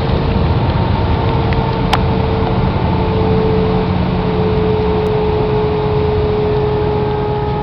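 Airbus A320 jet engines running: a loud, steady rushing noise over a low rumble, with a steady hum tone held throughout.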